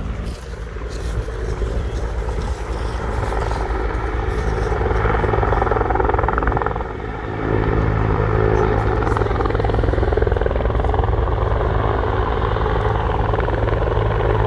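Search helicopter flying, its rotor running steadily, with a short dip in loudness about seven seconds in.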